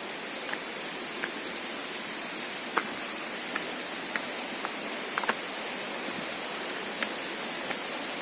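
Steady rush of flowing water from a stream or waterfall, with a constant thin high-pitched whine over it and a few scattered light ticks.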